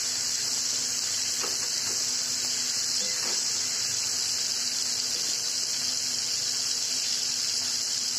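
Chopped tomatoes frying in hot oil in a steel kadai: a steady sizzling hiss, with a few faint taps of a spatula against the pan in the first three seconds.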